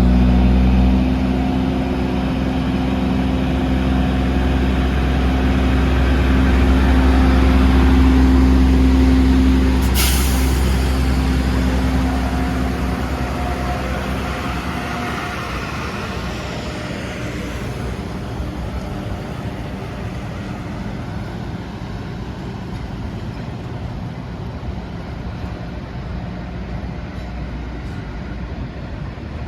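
Diesel locomotive engine running as a work train passes, loudest about eight seconds in, with a brief sharp hiss about ten seconds in. Then the engine tone drops away, leaving a rumble of the train rolling on the rails that slowly fades as it moves off.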